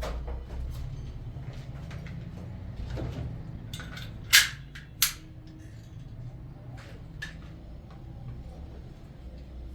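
Two sharp knocks about two-thirds of a second apart, with scattered lighter clicks and taps, over a steady low hum.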